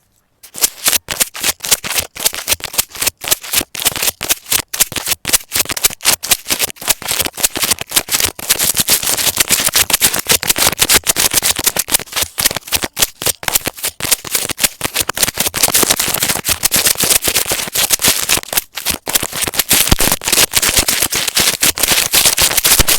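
Fast, dense crackling clicks that start suddenly about half a second in and grow denser and louder from about eight seconds on.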